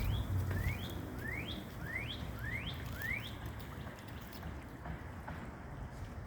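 A songbird whistling a series of six quick upslurred notes, each rising sharply in pitch, about two a second, then stopping about three seconds in. A low rumble underlies the first second.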